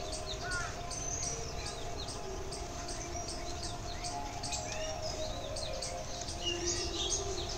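Several small birds chirping and calling in quick short notes, over a faint low steady drone.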